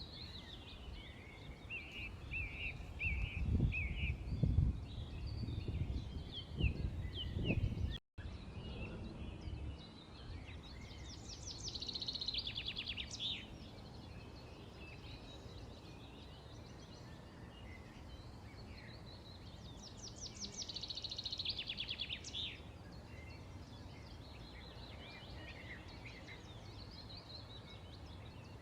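Small birds chirping and singing, with two bursts of fast, rapidly repeated high notes about a third and three quarters of the way through. A low, gusty rumble sits under the birds for the first eight seconds, then cuts out briefly.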